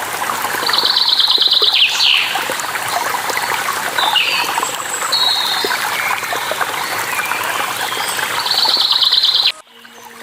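Rushing water with songbirds calling over it: scattered chirps and two repeated trilled calls, one near the start and one near the end. The whole sound drops away abruptly shortly before the end, then returns much quieter.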